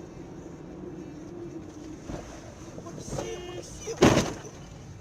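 A car driving on the road, heard from inside the cabin as a steady hum, then one sudden loud bang about four seconds in.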